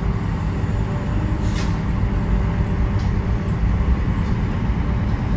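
Car driving: steady low road and engine noise, with a brief hiss about a second and a half in.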